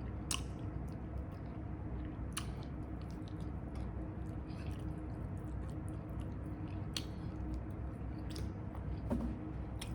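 Close-up chewing of a crunchy, chip-coated fried chicken wing, with wet mouth sounds and a few sharp crunchy clicks, over a low steady hum.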